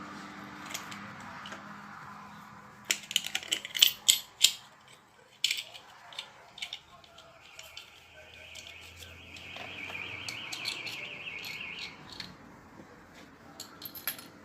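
Small metal hardware clicking and clinking in bursts as a bolt, washers, lock washer and nut are handled and fitted together. For a few seconds in the middle there is a steady high-pitched whine with a low hum under it.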